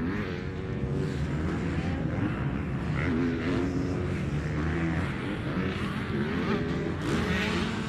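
Motocross bikes' engines running and revving around the track, their pitch rising and falling, more than one at once.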